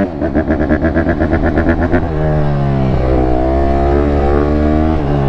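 Honda CRF150RB's four-stroke single-cylinder engine being revved to warm it up after stalling. For about two seconds the throttle is worked in rapid pulses, then the engine settles into a steadier, higher run.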